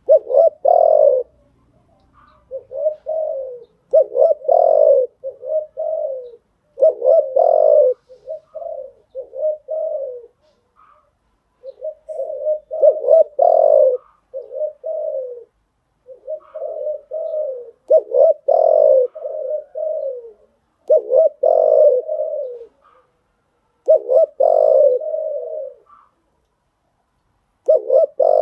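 Spotted dove (cu gáy) cooing its repeated song: phrases of several low coos, each phrase one to two seconds long, coming again every two to three seconds.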